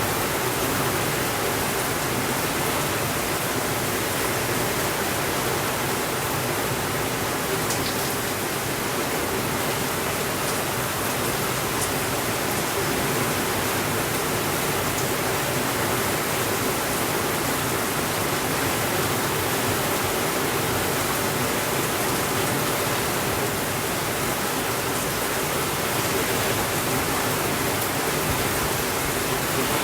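Steady rain falling, an even rushing hiss with no changes in level, with a few faint crackles from a wood fire.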